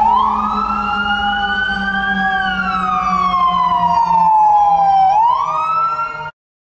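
Fire department vehicle siren wailing: the pitch rises for about two seconds, falls slowly, then rises again, over a steady low engine hum. It cuts off suddenly shortly before the end.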